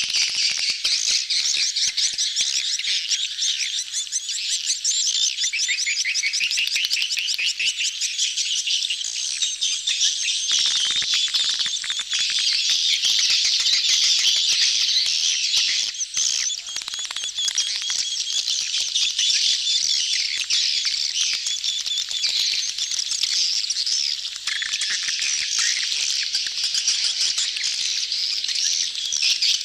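A dense chorus of edible-nest swiftlets, many birds twittering at once in rapid high trills and clicking chatter, unbroken throughout: the crowded mating chatter of a swiftlet colony, as used in a swiftlet lure call.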